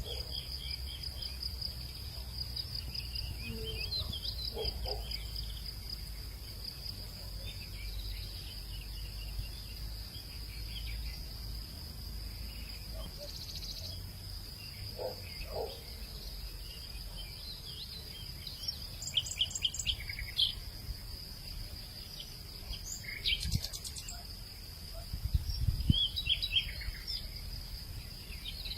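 Crickets and other insects keeping up a steady high-pitched drone, with birds calling in short scattered chirps that grow busier in the second half, over a low rumble.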